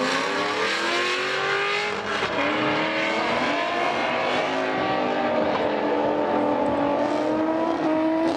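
A Chevrolet Corvette and a Honda S2000 accelerating hard down a drag strip from the launch, engines revving up through the gears. The pitch climbs, drops at a gear change about two seconds in, then climbs slowly again.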